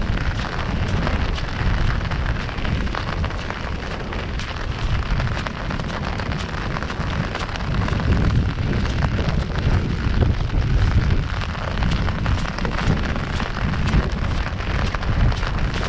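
Heavy rain drumming on an umbrella overhead: a dense, steady patter of drops with a deep rumble underneath.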